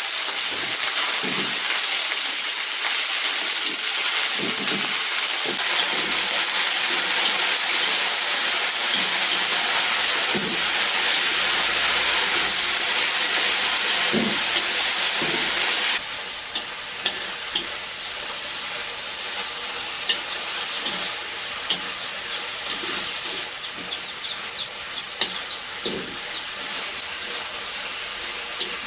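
Food sizzling and frying in a hot pan, a steady hiss. About halfway through it becomes quieter, with small crackling pops.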